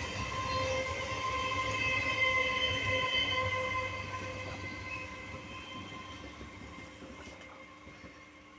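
Electric suburban local train (EMU) running past: a low rumble with a steady high whine over it. It grows louder for the first couple of seconds, then fades steadily as the train moves away.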